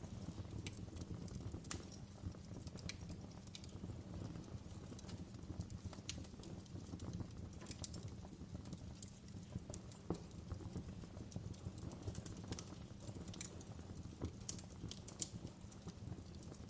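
Fire crackling: a steady low rumble with irregular sharp pops and crackles.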